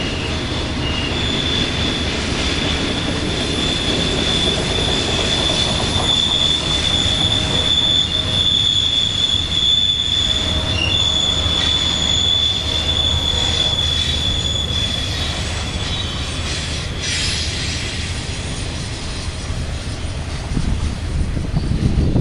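Freight train cars rolling past with a steady rumble, their wheels squealing in one high sustained tone from about a second in until around fifteen seconds.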